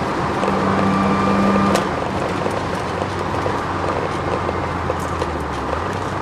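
Inside the cabin of a twin-turbo Ford Sierra XR4x4 on track: the engine runs hard under load, then the note drops suddenly about two seconds in and settles into a lower, steady drone. Road noise runs underneath, with scattered knocks and rattles from the bumpy ride.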